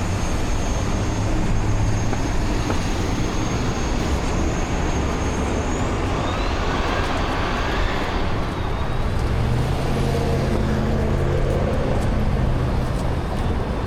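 Downtown street traffic: a steady wash of car and bus engines and tyres, with a vehicle passing close about seven to eight seconds in. A thin high whine runs for the first six seconds.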